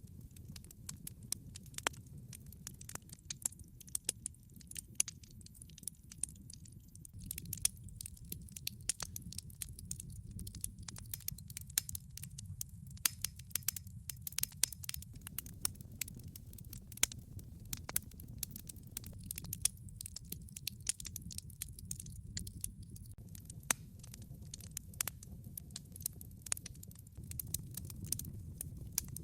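Wood fire burning in a fireplace, logs crackling and popping irregularly, with many sharp pops at no set rhythm over a steady low rumble.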